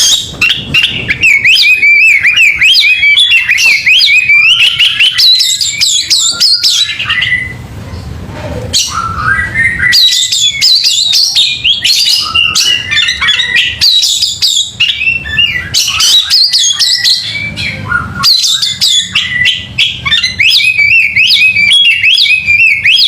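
Oriental magpie-robin (kacer) singing loudly and without pause in rapid, varied warbling phrases, with a short lull about eight seconds in. It is a kacer song of the kind played to rouse a bird into fanning its tail and turning aggressive.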